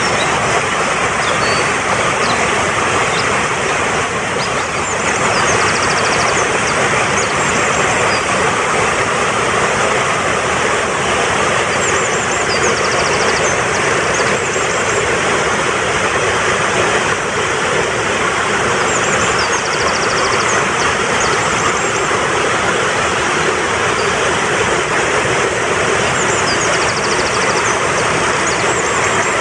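Fast-flowing mountain stream rushing steadily, with a songbird's short high-pitched phrases of rapid trilled notes breaking in about every seven seconds, four times.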